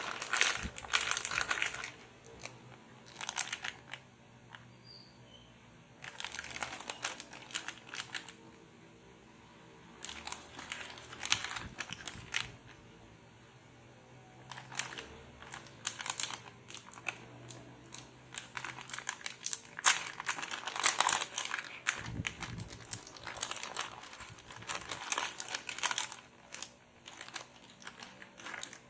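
Packaging crinkling and rustling as it is handled, in bursts with short pauses between them.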